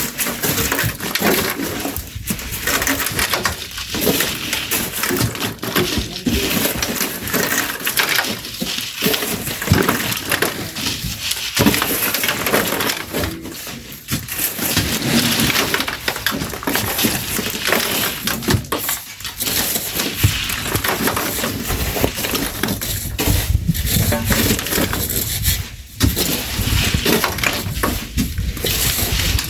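Shovels scraping into sand and grit and throwing it into a truck bed: a steady run of gritty scrapes and knocks. A low rumble joins in about two-thirds of the way through.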